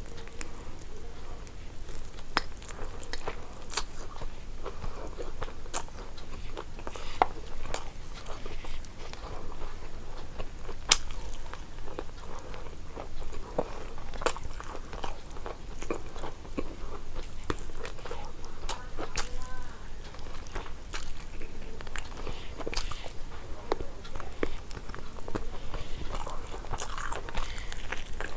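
Close-up eating sounds of a person eating biryani: steady chewing and biting with sharp, irregular mouth clicks and smacks.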